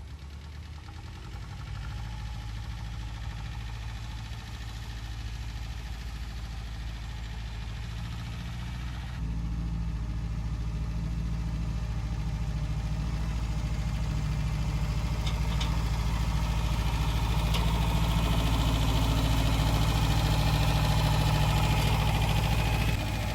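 John Deere tractor engine running steadily. It gets louder about nine seconds in, grows louder again toward the end, and drops back suddenly just before the end.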